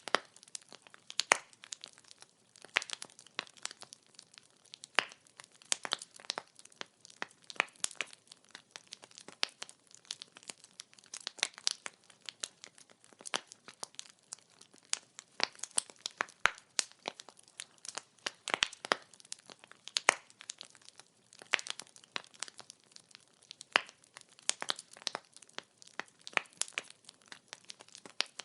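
Wood fire crackling: burning firewood giving off many quick, irregular pops and snaps over a faint hiss.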